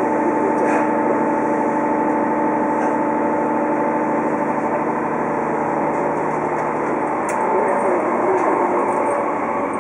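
Cabin sound of a JR Kyushu 817 series electric train under way: a steady whine of a few fixed tones from its inverter-driven traction motors, over rolling noise from the wheels on the rails. The tones fade about seven seconds in.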